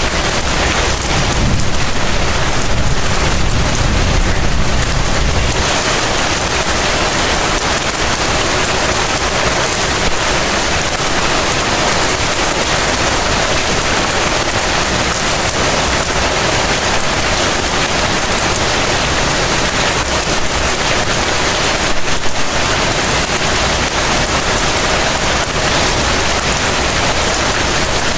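Heavy rain falling steadily, a dense even hiss, with a low rumble in the first few seconds.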